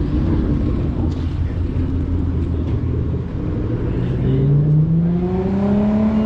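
Car engine running with a low rumble, then its note climbs steadily in pitch from about three and a half seconds in as it is revved or accelerates, easing off slightly at the end.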